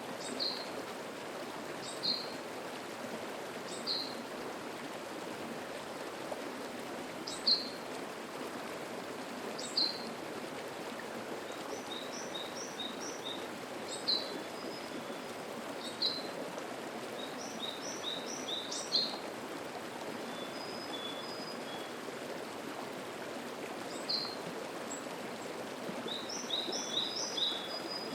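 Mountain stream flowing steadily, with a bird repeating a short, sharp high call about every two seconds and, now and then, quick runs of twittering notes, the longest near the end.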